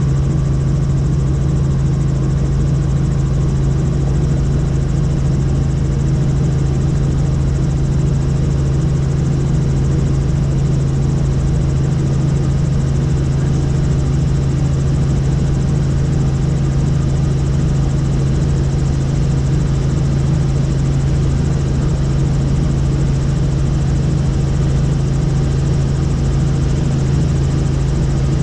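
Helicopter in flight: steady, loud engine and rotor noise with a strong low hum, holding level throughout.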